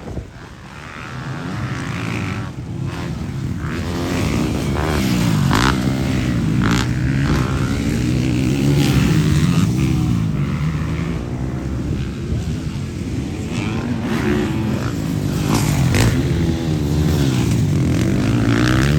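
Several motocross bikes racing, engines revving up and down through the gears, with the pitch swinging constantly. It grows louder in the first few seconds as the bikes come closer, then stays loud.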